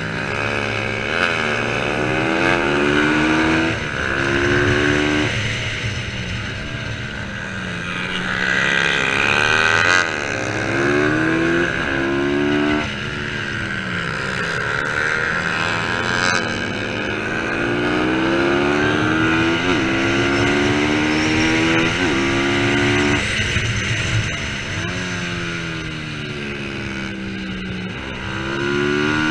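Racing motorcycle engines at high revs, pitch climbing again and again and dropping back at each gear change as they accelerate.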